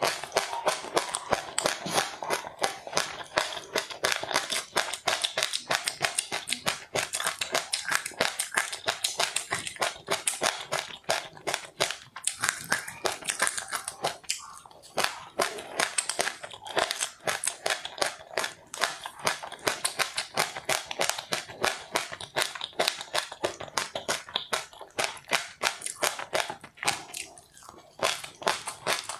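A person chewing crunchy food close to the microphone: rapid, continuous crunching, several crunches a second.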